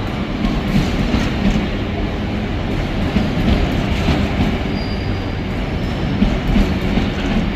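Intermodal freight train hauled by two Class 88 locomotives rolling past, with a steady loud rumble of steel wheels on the rails and scattered light clicks.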